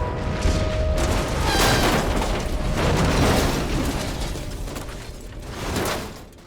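Film soundtrack: music mixed with deep rumbling and crashing action sound effects, dying away in a fade-out near the end.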